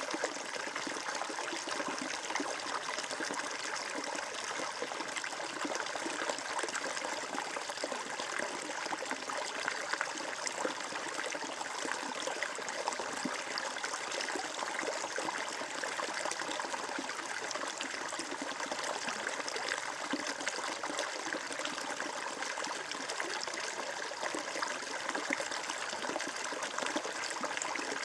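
Flowing water trickling and babbling steadily, a dense continuous splashing hiss.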